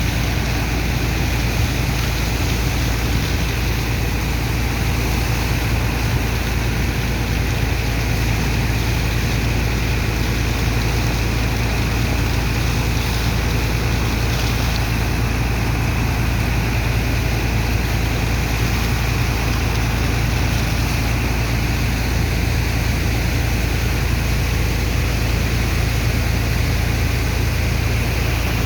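Heavy engine of a sand dredger's water pump running steadily under load, a constant low hum with no change in speed.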